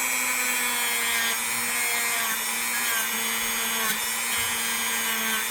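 A small handheld power tool's motor running steadily with an even, unchanging whine while rust and grime are cleaned off an old pocket knife.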